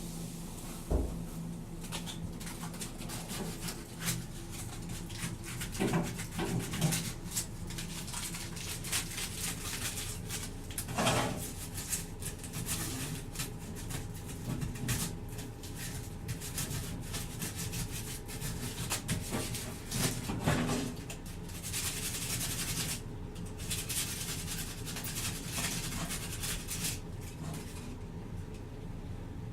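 Crumpled aluminum foil scrubbing a chrome exhaust pipe to lift rust, in many short, irregular rubbing strokes with a few louder knocks of the metal piece.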